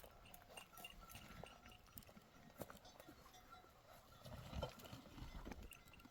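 Near silence: faint outdoor pasture ambience with scattered soft clicks and taps and a faint, repeated high-pitched tinkle or peep.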